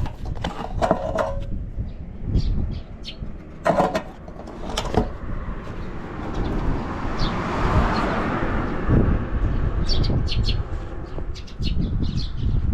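Honda Motra's small single-cylinder four-stroke engine idling low and steady, with scattered sharp clicks and knocks over it and a noisy swell that rises and falls about seven to nine seconds in.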